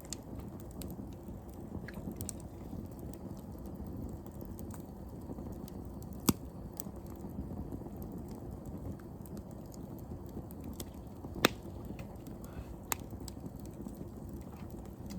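Wood fire burning in a fire pit: a low steady rustle of flames with scattered small crackles, and two sharp, loud pops, one near the middle and one about three quarters of the way through.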